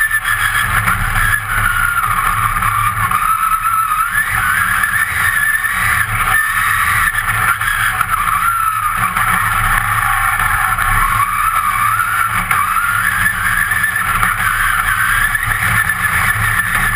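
Competition car's engine heard from inside the stripped-out cabin, running hard at speed, its pitch rising and falling again and again over a constant low rumble.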